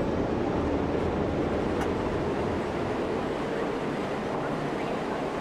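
Steady rushing noise with a low rumble from a moving vehicle.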